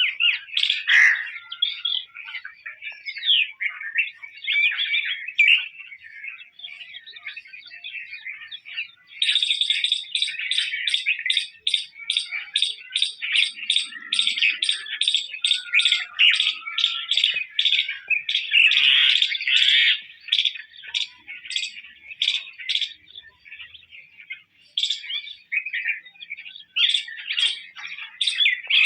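Birds chirping and twittering without pause; from about nine seconds in, a fast run of sharp repeated chirps, about three a second, rises over the chatter.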